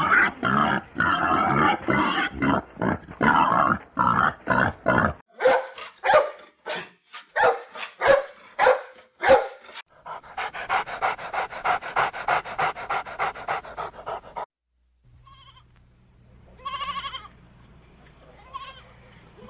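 A run of short animal calls: dense repeated calls for about five seconds, then a string of single calls, then a rapid even pulsing trill for about four seconds, and near the end a few faint calls over a low hum.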